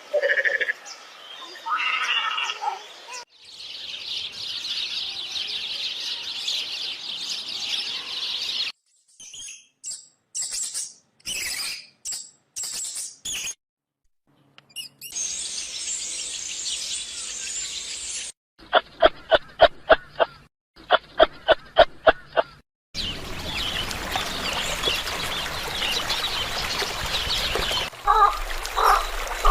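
A string of short animal-call clips one after another, with dense high bird chirping among them and a stretch of rapid, evenly spaced pulsed calls in the middle.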